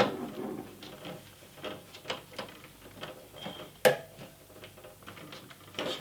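Scattered small clicks and knocks as a welding machine's ground cable and clamp are handled and fitted, with one sharper click about four seconds in.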